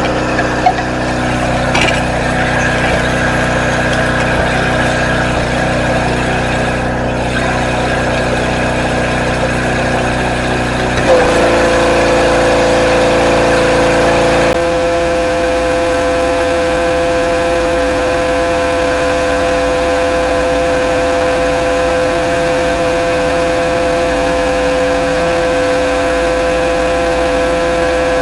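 Pressure washer running steadily while spraying. About eleven seconds in a steady whine comes in, and a few seconds later the low rumble drops away while the whine carries on.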